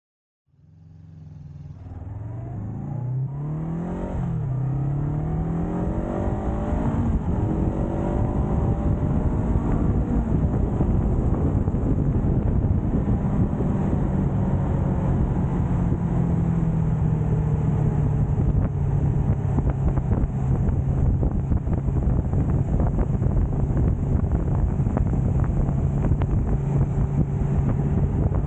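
Motorcycle engine pulling away: its pitch rises, drops once about four seconds in as it shifts gear, climbs again, then settles into a steady cruise over a constant rushing noise.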